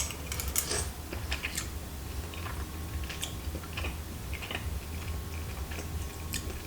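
Someone chewing chewy tteokbokki rice cakes: faint scattered mouth clicks, over a steady low hum.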